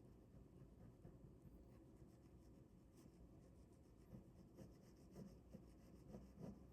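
Faint ballpoint pen drawing on paper: soft scratching strokes, a few of them a little louder in the second half.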